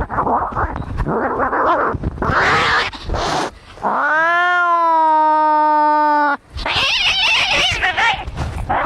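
Fighting cats: harsh, noisy snarling and spitting, then one long drawn-out yowl lasting about two and a half seconds, then harsh screeching again.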